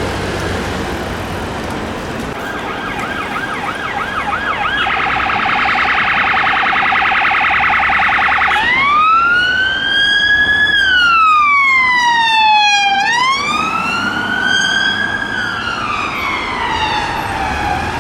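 Police car siren changing tones as it responds through traffic: a fast yelp from a couple of seconds in, then a very rapid warble, then from about halfway a slow wail rising and falling twice, over steady traffic noise.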